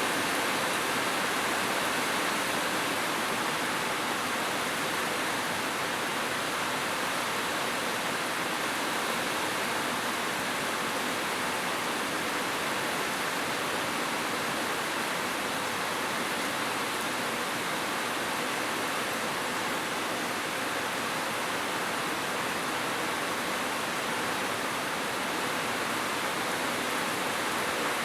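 Heavy rain falling steadily on a roof, an even rushing hiss without thunder.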